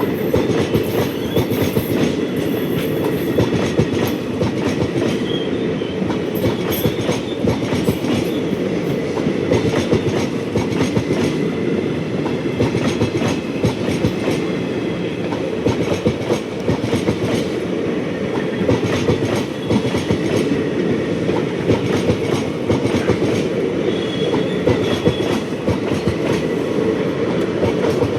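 Train wheels clattering over the rail joints as an Indian Railways train runs past, steady and continuous, with now and then a brief faint high squeal.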